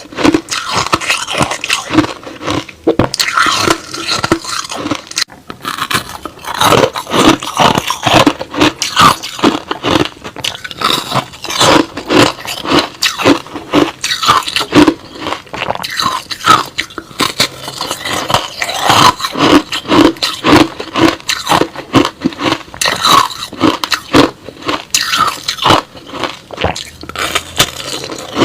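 Close-miked chewing of crushed-ice slush: a fast, unbroken run of crunches and scrapes as the ice is bitten and ground between the teeth.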